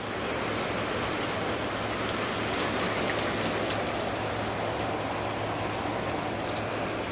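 Rain falling steadily during a thunderstorm, an even, unbroken hiss.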